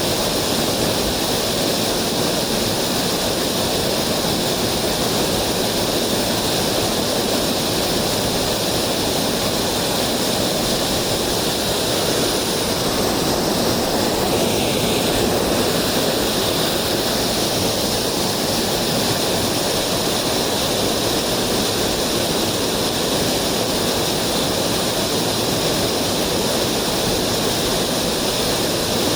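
Mountain stream water rushing over rocks, a steady, even hiss that does not let up.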